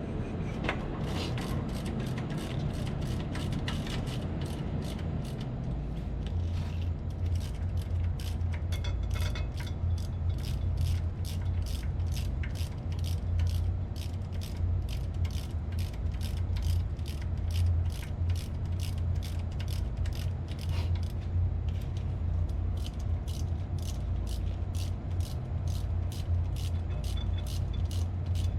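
Metal clicking in a steady rhythm, about two to three clicks a second, over a steady low mechanical hum that grows stronger about six seconds in.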